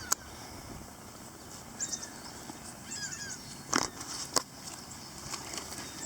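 Small birds chirping in short high runs of notes, with three sharp clicks over a steady background hiss.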